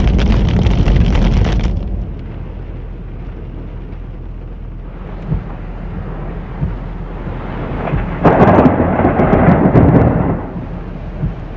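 Heavy rain falling during a thunderstorm. There is a loud rush for the first two seconds, then a quieter steady patter. From about eight to ten and a half seconds a loud rumble of thunder swells up.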